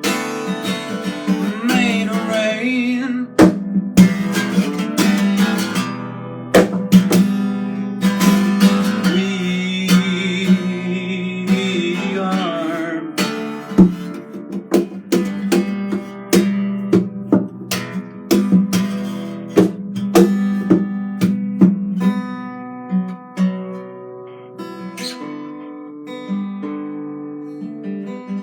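Acoustic guitar strummed and plucked, with many sharp percussive strokes.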